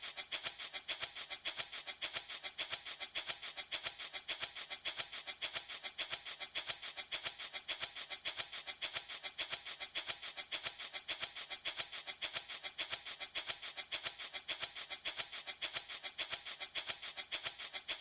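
A handmade rattle shaken steadily in an even rhythm of several shakes a second, each stroke a bright, hissy rattle of small beads, like a maraca.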